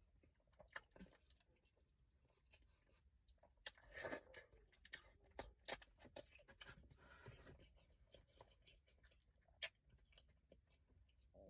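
Close-up eating of a crawfish boil: quiet chewing and wet mouth sounds, with scattered sharp clicks and crackles that are loudest about four and six seconds in and one more near the end.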